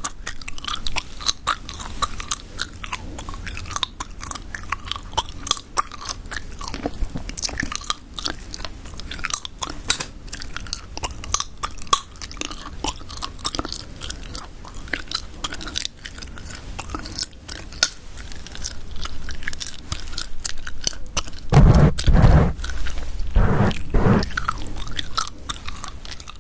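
Close-miked gum chewing: a steady run of wet, sticky smacking clicks. Near the end come a few louder, deeper thumps.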